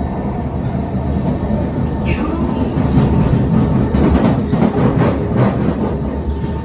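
Kawasaki C151 MRT train running on the track: a steady low rumble of wheels and running gear that grows louder and rattles more in the middle, with a brief high squeal about three seconds in.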